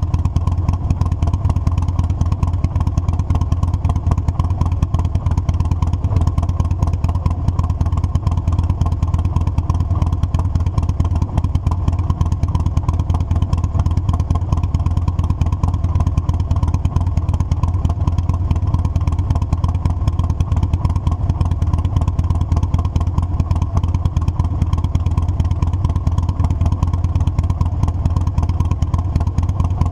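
Motorcycle engine and exhaust running steadily on the move, a low, even rumble that holds the same pace throughout.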